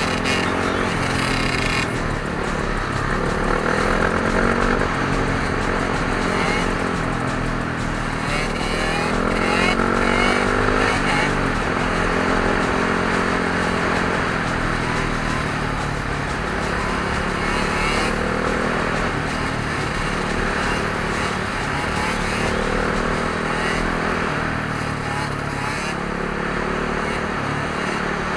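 Dirt bike engines revving and running, their pitch repeatedly rising and falling as the throttle is opened and eased off.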